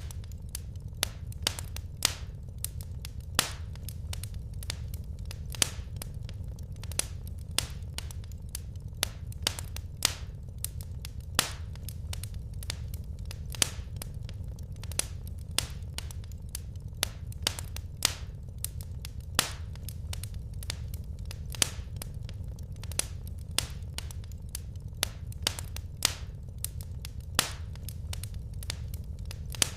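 Firewood burning in a fireplace: irregular sharp crackles and pops, a few a second, over a steady low rumble.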